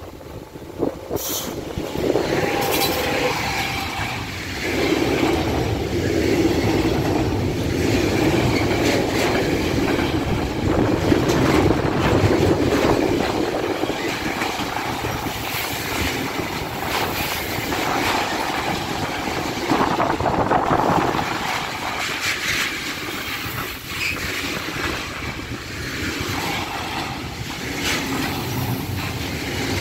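Container freight train passing close by at a level crossing, arriving about a second in. The wagons run past with steady rail noise and frequent wheel clicks.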